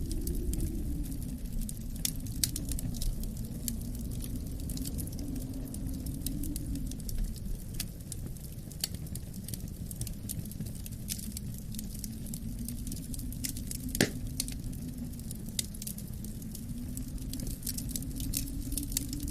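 Wood fire crackling with irregular sharp pops, one louder pop about 14 seconds in, over a low, steady wind rumble whose pitch slowly wavers up and down.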